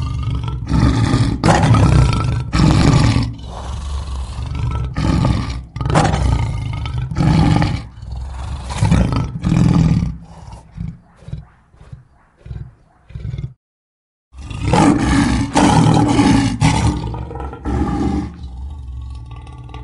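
Lion roaring: a string of loud roars that taper off into a series of short grunts. After a brief silence, a new bout of loud roars starts and fades near the end.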